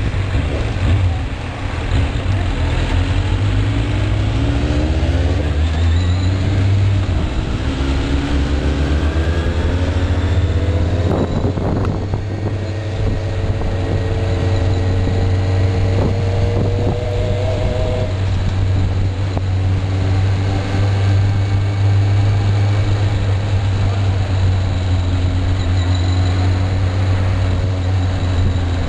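Inline-four sport-bike engine under way, its revs climbing in long pulls through the gears, the longest through the middle. Heavy wind rush on the microphone runs underneath.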